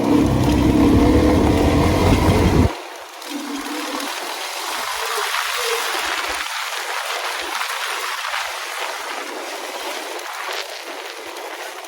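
Suzuki DR-Z400E dirt bike's four-stroke single-cylinder engine running loudly for about three seconds, then cutting out abruptly. A steady rushing noise, like wind or traffic, remains after it.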